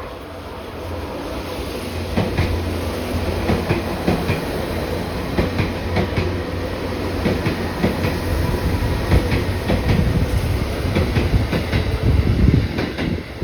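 Seibu Railway old 2000 series electric train passing close by, its wheels clattering over rail joints in a quick, irregular run of clicks over a low rumble. The sound builds from about a second in and drops off at the very end.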